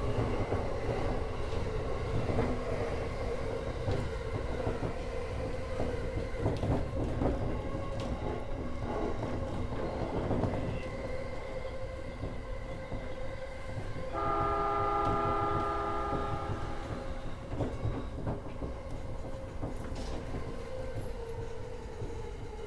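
E231 series electric commuter train running at speed, with steady wheel-on-rail rumble and a constant hum. About 14 seconds in, a train horn sounds for about two and a half seconds.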